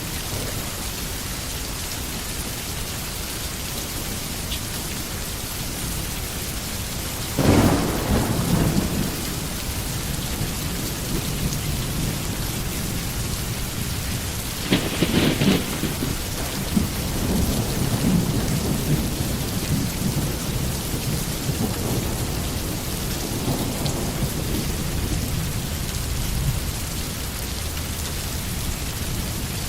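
Steady rain falling in a forest, with two loud thunderclaps about a quarter and half of the way through, the second followed by a long low rumble of thunder.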